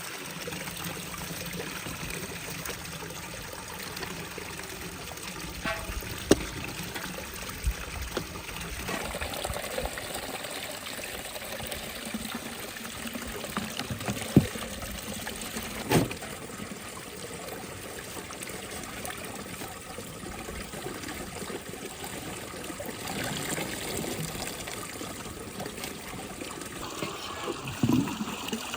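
Water trickling steadily, with a few sharp knocks or clicks.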